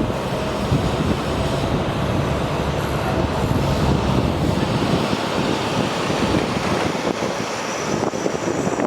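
Steady rumbling vehicle noise with a low rumble that fades out about halfway through.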